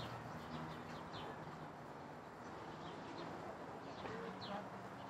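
A few faint, short bird chirps at scattered moments over a low, steady background hum.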